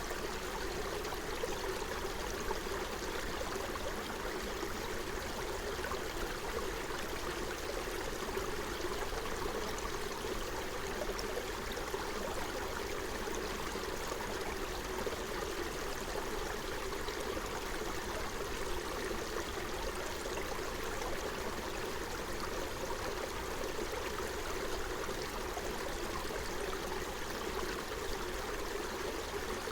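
Forest stream running over stones, a steady burbling rush of water.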